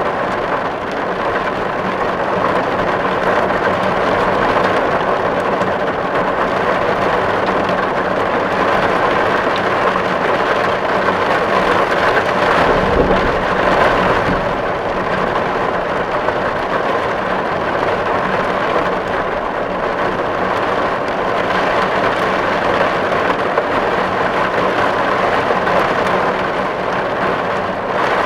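Steady heavy rain drumming on a tin roof, a dense even patter of drops on the metal, with a low rumble swelling briefly about halfway through.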